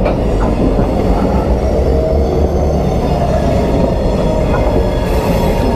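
Diesel freight locomotives, GMTX 2323 and a CN unit, running steadily and rumbling slowly past close by.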